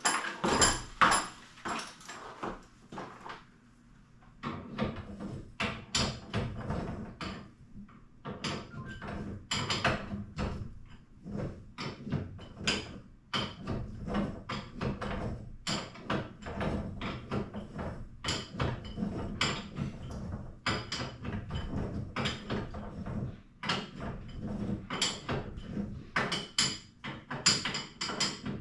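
Irregular metallic clicks and knocks of hand tools and hardware being worked during a garage door torsion spring replacement. A steady low hum comes in about four seconds in and runs on underneath.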